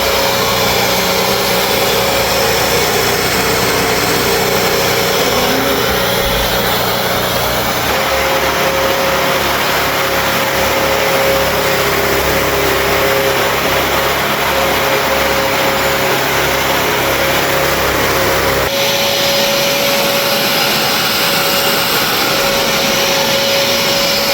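Bissell Crosswave HydroSteam wet-dry vacuum running steadily, its motor noise carrying a constant whine. The sound shifts slightly about 8 seconds in and again about 19 seconds in.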